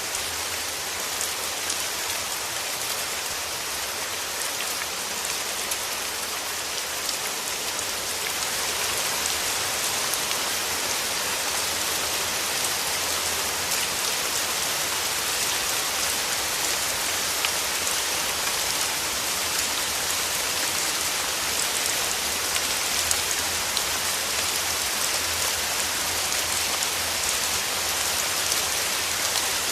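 Steady rain falling on surfaces, a dense hiss of many close drops with individual drop ticks, growing a little heavier about eight seconds in.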